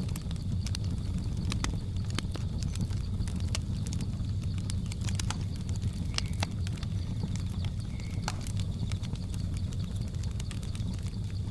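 Wood fire crackling, with irregular sharp pops and snaps over a steady low rumble of the flames. A faint, steady high tone of the jungle ambience runs beneath.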